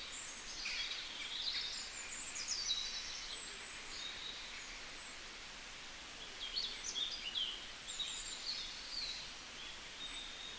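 Small birds chirping and twittering, with quick high calls overlapping one another over a steady background hiss.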